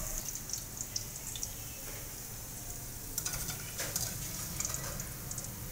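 Hot oil sizzling in a pan of fried bitter gourd (karela) slices, with scattered clicks and scrapes of a metal slotted spatula against the pans as the slices are scooped across into the onion masala. A few sharper knocks come about three and four seconds in.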